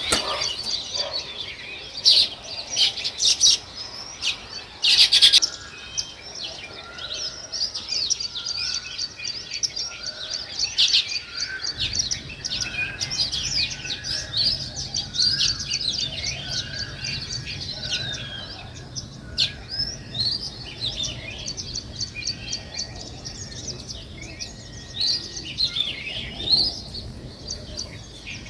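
A flock of small songbirds chirping and chattering, with many short, overlapping chirps and a few louder bursts in the first several seconds. A low steady hum joins about twelve seconds in.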